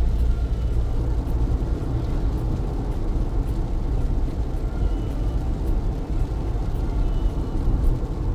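Car driving through heavy rain: a steady low road-and-engine rumble under the hiss of tyres on wet pavement and rain on the car.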